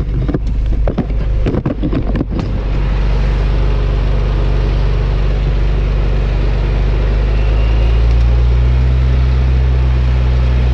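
4x4 vehicle engine running steadily while driving slowly through thick sand, with a few sharp knocks and rattles in the first couple of seconds. The engine note grows slightly louder about eight seconds in.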